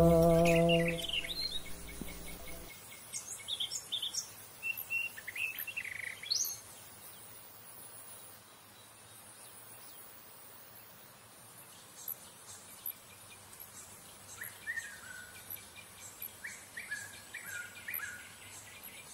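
A held chord of background music dies away over the first three seconds, then birds chirp in short, scattered calls over a faint steady hiss, thinning out in the middle and picking up again near the end.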